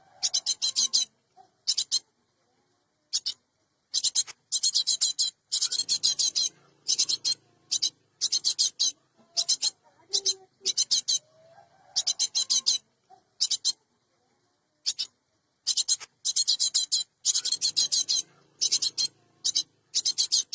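Cinereous tit (gelatik batu) giving harsh, rasping, high-pitched calls in quick bursts. The calls come in clusters separated by short pauses.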